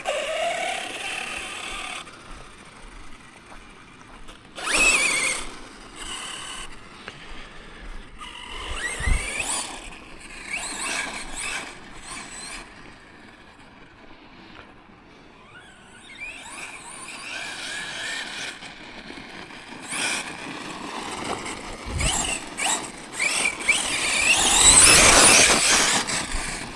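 Tekno MT410 2.0 RC monster truck being driven, its brushless electric motor whining up and down in pitch in bursts with the throttle. A louder rush of noise comes near the end.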